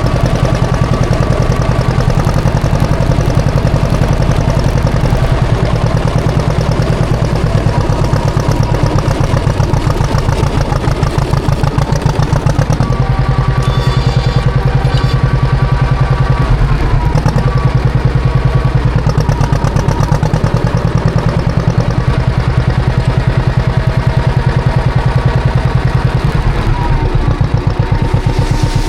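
John Deere 530's two-cylinder engine running steadily with an even, rapid pulse, its pitch shifting slightly a few times around the middle and near the end.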